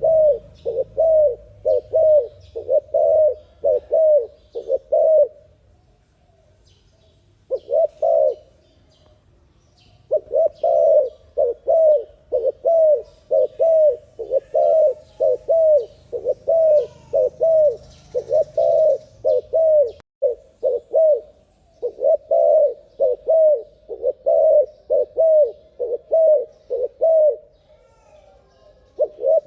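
Dove cooing in a rapid run of short coos, about three a second, in long bouts broken by a few brief pauses.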